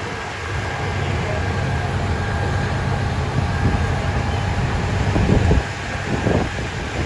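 Low, steady engine rumble of a heavy vehicle in street traffic, which cuts off about five and a half seconds in, followed by a few short knocks and noises.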